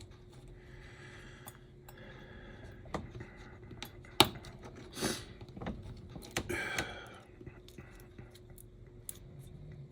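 Small parts of an HO scale slot car chassis being handled and fitted by hand: light scattered clicks and scrapes, with one sharp click about four seconds in and brief scraping rustles around five and seven seconds.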